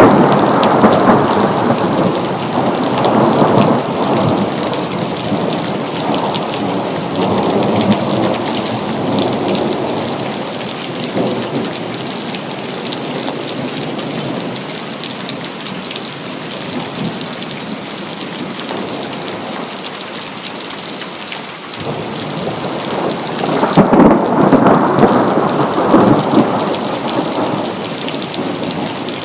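Steady heavy rain with rolling thunder: one long rumble dies away over the first ten seconds or so, and another rolls in about 22 seconds in.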